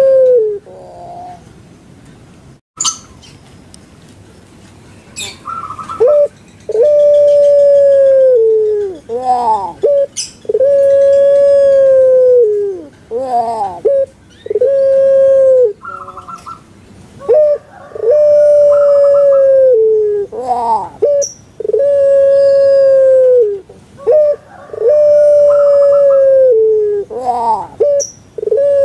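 Puter pelung dove (long-voiced barbary dove) calling over and over after a quiet start. Each call is a few quick bubbling, gliding notes followed by a long held, drawn-out coo that drops in pitch at the end, repeating about every four seconds.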